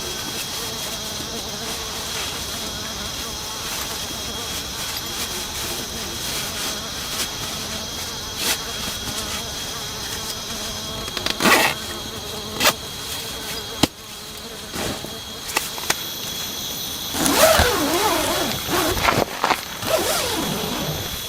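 A steady chorus of forest insects making a continuous high-pitched buzz. A few sharp knocks come partway through, and a louder stretch of clattering and rustling follows near the end.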